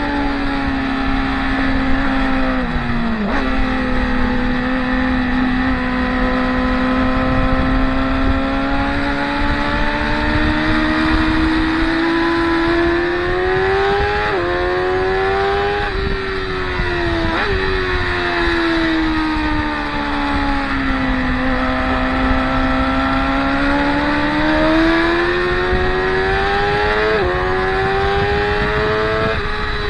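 Track motorcycle engines running at high revs. The engine pitch sinks and climbs in long sweeps as the bikes brake and accelerate, with a few abrupt jumps in pitch at gear changes.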